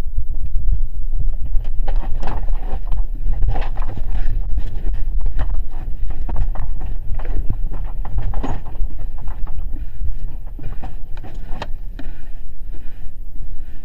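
Deep, continuous rumbling with irregular clattering and knocking all the way through, the sound of a building and the loose things in it rattling during strong earthquake shaking.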